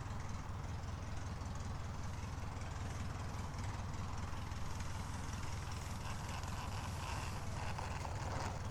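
Light aircraft's piston engine idling, a low steady drone.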